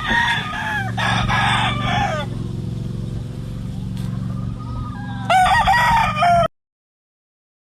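Gamefowl roosters crowing: one crow about a second in and a louder one near the end, over a steady low hum. The sound cuts off suddenly about a second before the end.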